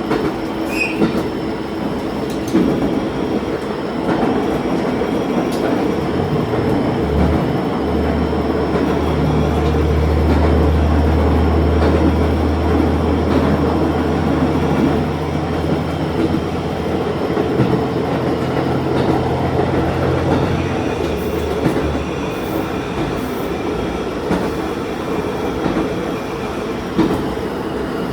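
Diesel railcar running along the line, with steady rolling noise and occasional clicks from the rails. A low, steady engine drone comes in about seven seconds in and drops away after about twenty seconds.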